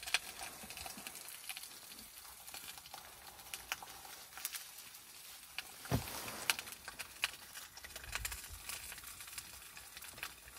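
Slices of pork fat sizzling faintly in a frying pan over charcoal, with scattered small crackles and pops; a single louder knock comes about six seconds in.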